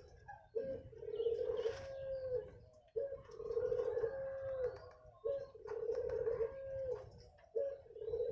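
Zebra dove (perkutut) cooing: its phrase repeats four times, every two to two and a half seconds. Each phrase is a short opening note, a rolling trill and a long held coo that drops slightly at the end.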